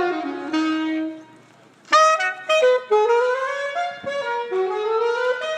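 Solo saxophone playing: a held low note, a short break a little over a second in, then a phrase of held notes climbing step by step.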